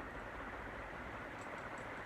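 2001 Banvil Envirofan Heavy Duty Gold Line industrial ceiling fan running steadily at its fastest speed, a constant rush of air with faint light ticking. The fan is wobbling on a makeshift U-loop mount that stands in for the missing top connecting piece and bushing.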